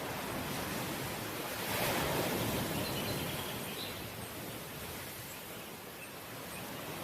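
Ocean waves breaking and washing on the shore, a steady surf rush that swells about two seconds in and then eases off. A few faint high chirps sound over it.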